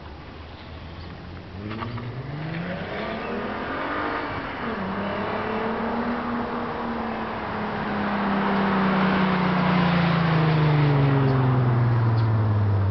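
VW Mk4 GTI VR6 engine through a Borla 2.5-inch exhaust, revving up with a rising note, dropping in pitch at a gear change about five seconds in. The note then sinks slowly as the exhaust grows louder.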